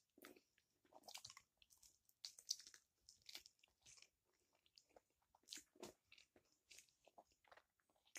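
A person biting into and chewing a barbecue chicken wing, close to the microphone. It comes through as faint, irregular clicks and smacks of chewing.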